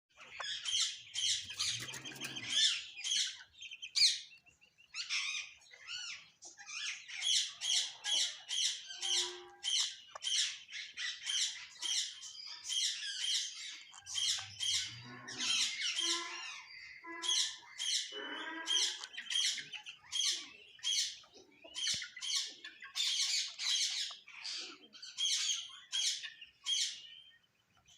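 Ringneck parakeet squawking: runs of short, sharp, shrill calls at about two to three a second, broken by lower, more varied chattering in the middle.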